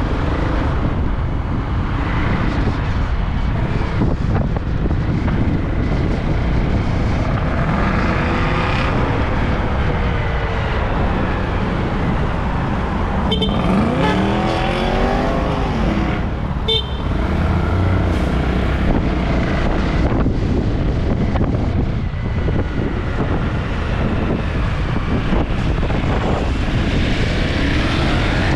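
Heavy wind buffeting the microphone over road traffic and a running vehicle engine. About halfway through, an engine's pitch rises and falls, with two short horn toots about three seconds apart.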